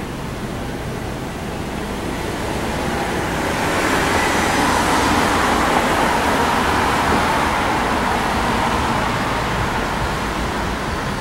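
Road traffic noise: a steady low rumble, with a vehicle swelling past and fading away in the middle.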